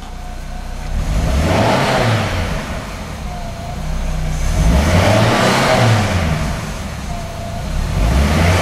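1998 Pontiac Sunfire GT's 2.4-litre twin-cam four-cylinder engine revved twice from idle, each rev rising and falling back, with a third rev starting near the end. It sounds a little loud.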